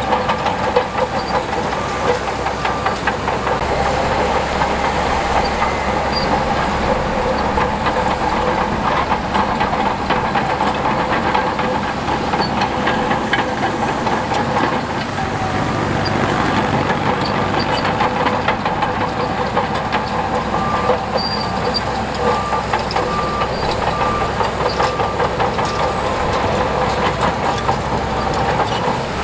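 Heavy tracked earthmoving machine's diesel engine running steadily under load, with a dense rapid metallic clicking and clanking from its crawler tracks.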